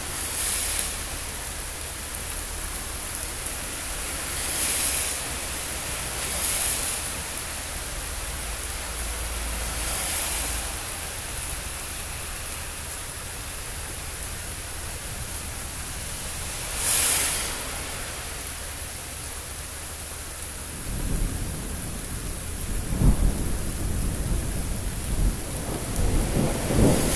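Steady rain hissing, with a few brief louder surges. In the last few seconds rolling thunder sets in: a low rumble with sharp cracks, growing louder toward the end.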